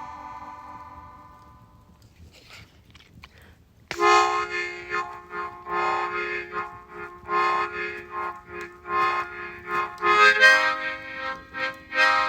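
Harmonica playing chords. A chord dies away, then after a short quiet gap comes a run of rhythmically pulsed chords over a held lower note, with the chord changing near the end.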